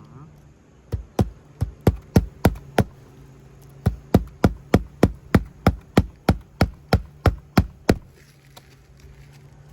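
Hammer driving nails on a roof: sharp, even strikes about three a second, a run of about seven, a short pause, then about fourteen more.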